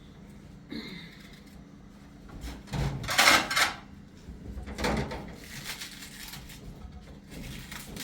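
Household handling sounds as a floor tablecloth is spread out for a meal and things are set down on it: a loud rustling swish about three seconds in, with smaller knocks and rustles before and after.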